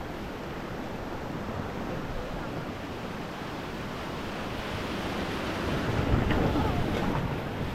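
River water rushing and splashing around a raft, with wind buffeting the microphone; it grows louder about five seconds in.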